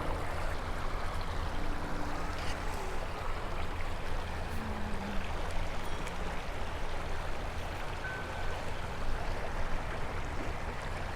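Creek water flowing in a steady rush.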